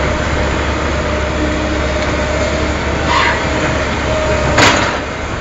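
Heavy diesel machinery running steadily with a constant drone, a short rushing swell about three seconds in, and one sharp loud clank or crack about four and a half seconds in.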